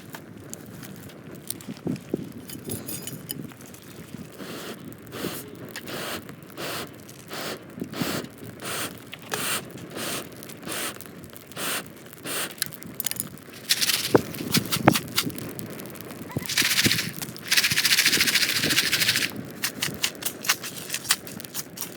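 Popcorn being made in a pan over a campfire: a rhythmic rattling and crackling, about one or two strokes a second, as the pan is shaken and the kernels pop. A loud hiss lasts about three seconds near the end.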